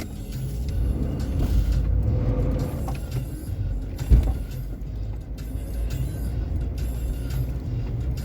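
Vehicle driving, a steady low rumble, with one sharp knock about four seconds in.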